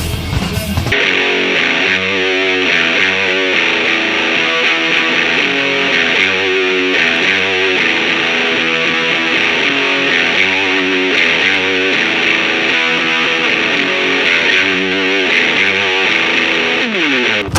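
Distorted electric guitar playing a grunge-style riff through a pedal and amp-cabinet simulation, with quickly changing notes. It ends with a downward slide. The first second is other, fuller-sounding music.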